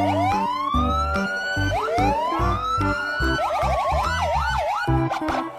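Electronic police siren wailing in slow rising and falling sweeps, switching to quick yelp sweeps about halfway through, over background music with a steady beat.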